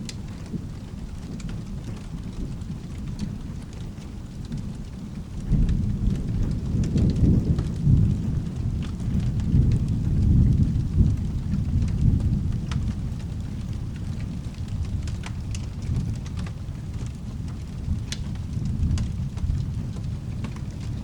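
Rolling thunder over steady rain. The rumble comes in suddenly about five seconds in, swells for several seconds, then slowly dies back into the rain, with sparse small ticks throughout.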